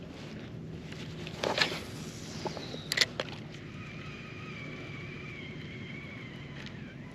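Distant motorboat engine droning steadily, with a thin whine that sets in about halfway through, and a couple of sharp knocks from gear on the kayak early on.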